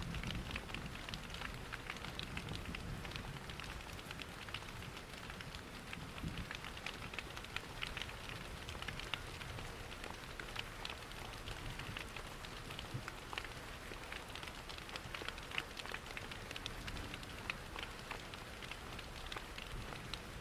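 Steady rain pattering, mixed with the crackle and small pops of a wood fire and a low rumble of falling water.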